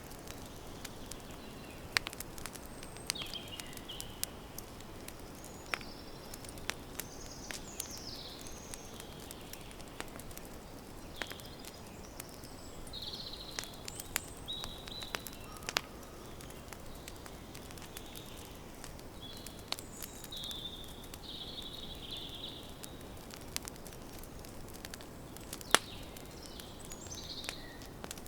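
Campfire crackling, a steady hiss broken by scattered sharp pops, the loudest near the end, while small birds chirp on and off.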